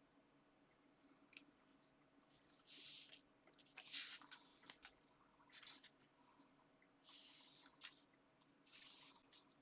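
Sheets of paper and card being handled and laid together: a few short, soft rustling swishes of paper sliding over paper, with faint light taps in between.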